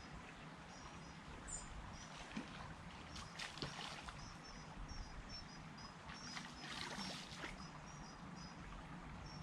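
Faint water swishing and splashing at the river's edge in two brief bursts, over a steady run of short high chirps, about two a second.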